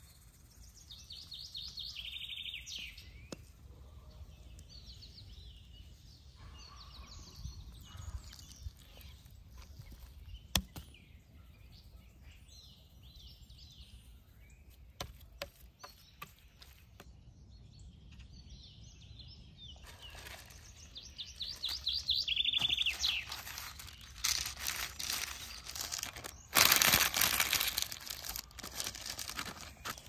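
Songbirds singing, with a quick high trill that drops in pitch heard twice, about a second in and again past the twenty-second mark, over scattered small clicks and handling knocks. Near the end there is a loud, noisy scraping burst lasting about a second and a half.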